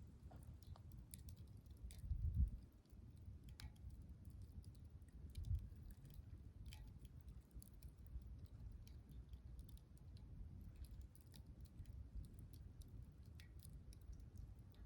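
Campfire burning, with sparse, irregular crackles and pops over a low rumble that swells briefly twice.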